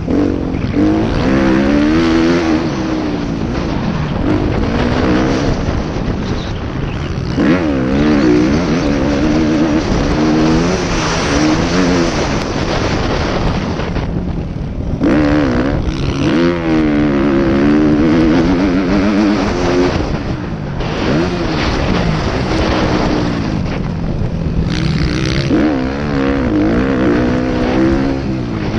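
Motocross motorcycle engine being ridden hard, revving up and falling back again and again as the throttle opens and closes, with brief let-offs about a third and two thirds of the way in. A rushing noise runs under the engine throughout.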